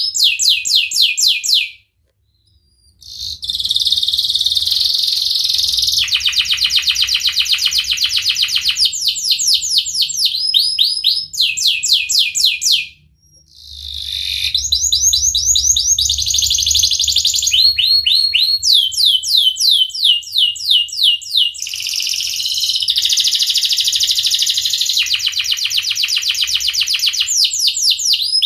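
Domestic canary singing a long, loud song of fast repeated chirps and rolling trills, phrase after phrase, breaking off briefly about two seconds in and again about thirteen seconds in.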